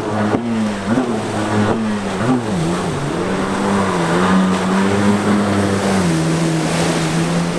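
Two-stroke twin-cylinder stand-up jet ski engine running under throttle. Its pitch dips and picks back up several times in the first two or three seconds, holds steady, then eases down a little about six seconds in.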